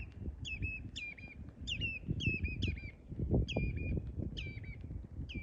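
Common redshank calling repeatedly: a string of short piping calls, each dropping sharply in pitch and ending on a brief level note, roughly two a second, over a low rumble.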